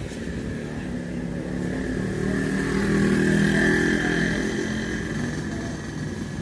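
Honda Vario 150 scooter engine and drivetrain running with the rear wheel driven, speeding up to a peak about three seconds in and easing back, with a steady whine above the engine note. The gearbox runs smoothly, its worn part freshly replaced.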